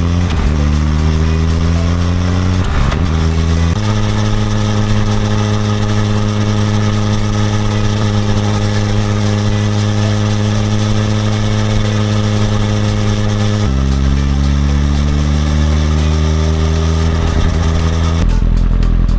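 Suzuki GSX-R1000R sportbike's inline-four engine pulling up through the gears, its pitch climbing and dropping at each upshift in the first few seconds. It then holds a steady cruise for about ten seconds, and after another shift climbs slowly again.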